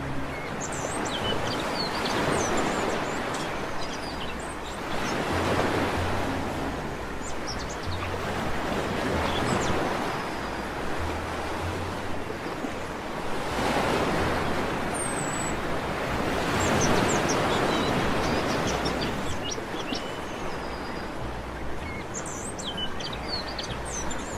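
Sea waves washing onto a beach, swelling and falling away every three to four seconds, with birds giving short, scattered chirps.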